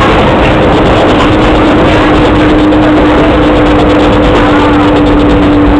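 Passenger train running, heard from inside an open-windowed carriage: a loud, steady rumble of wheels and rushing air with a steady hum running through it.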